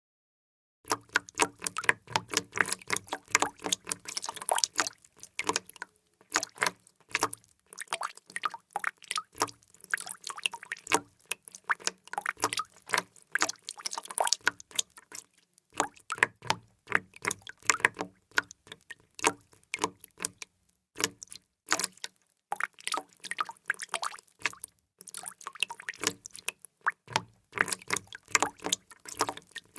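Water drops falling in a quick, irregular patter of many sharp drips a second, starting about a second in and broken now and then by short pauses.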